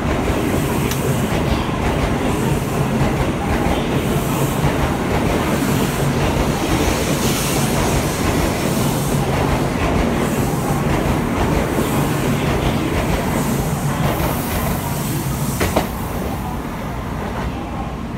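Shinkansen train moving along the platform: a steady rumble of wheels and running gear with rail clatter. A single sharp click comes near the end, after which the sound is quieter.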